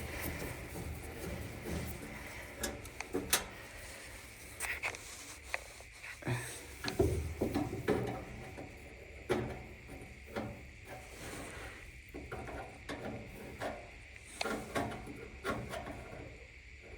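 Irregular clicks, knocks and rattles of parts and tools being handled during a dryer repair, over a faint steady high hum.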